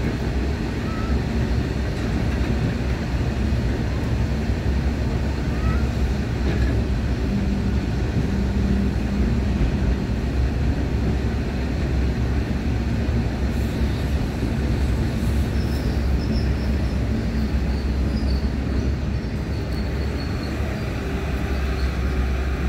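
Indian Railways freight train of open-top wagons rolling steadily past, a continuous low rumble of wheels on rails, with faint high squeals in the second half.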